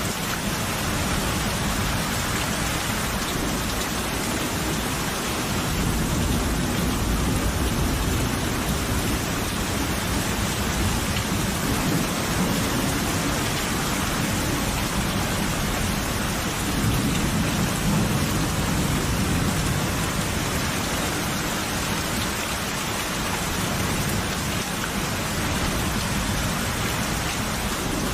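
Steady heavy rain with rumbles of thunder, the thunder swelling about a quarter of the way in and again past the middle.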